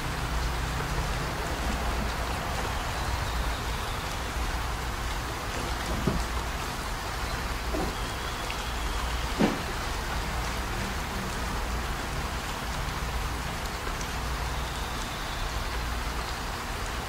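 Steady rain, falling without a break, with a few knocks on top, the loudest about nine and a half seconds in.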